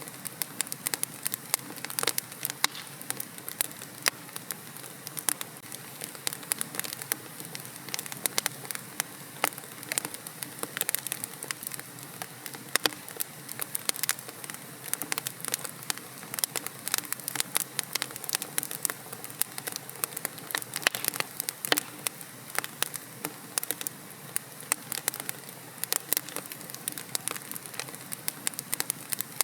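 Wood fire crackling in a fireplace: dense, irregular sharp pops and snaps over a soft steady hiss of the flames.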